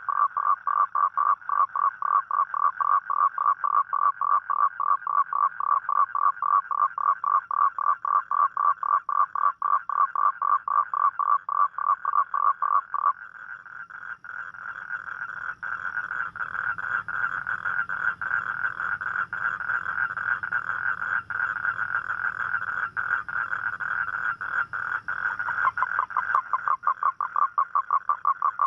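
Toad calling: a fast, even train of pulsed croaks, several a second. About halfway through the calling drops to a quieter, denser and slightly higher trill, and the pulsed croaking comes back near the end.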